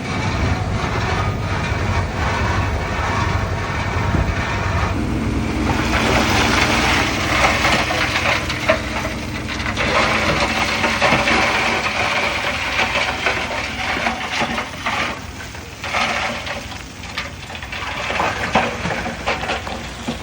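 Heavy diesel earthmoving machinery running at a work site, a steady engine hum throughout. About five seconds in, a second engine note joins, along with continuous gritty noise and scattered knocks from the machines working the fill.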